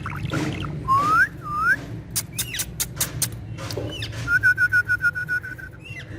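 Indian ringneck parrot whistling: two short rising whistles about a second in, then a rapid warbled trill held on one pitch for over a second near the end, with scattered sharp clicks between.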